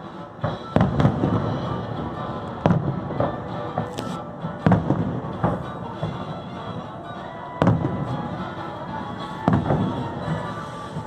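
Fireworks shells bursting in sharp booms every second or two, over continuous show music.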